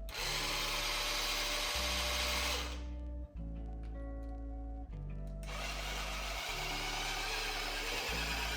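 Soft background music with slowly changing chords; over it a small electric appliance runs with a loud, even whirring hiss for about the first two and a half seconds, stops, and starts again about halfway through.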